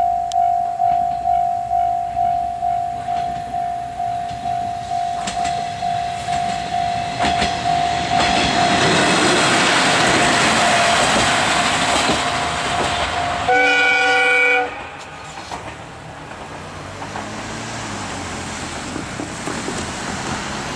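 Japanese level-crossing warning bell ringing, a pulsing ding about twice a second, as the Tarumi Railway Hymo 330 diesel railcar approaches. The bell is then swamped by the railcar passing with a loud rumble and rail clatter. Near the end of the pass a horn sounds once for about a second, and the noise then drops away abruptly.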